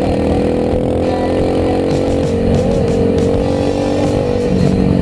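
Enduro motorcycle engine running at a steady cruising pitch, heard from a helmet camera, with low wind rumble on the microphone.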